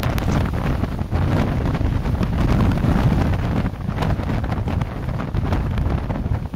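Strong gale-force wind buffeting the microphone, a loud low rush that surges in gusts.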